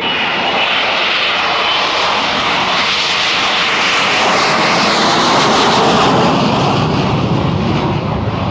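Hawker Siddeley Harrier's Rolls-Royce Pegasus jet engine, loud, as the jet flies its display in conventional wing-borne flight. There is a thin high whine in the first couple of seconds, and the sound drops to a lower rumble in the second half.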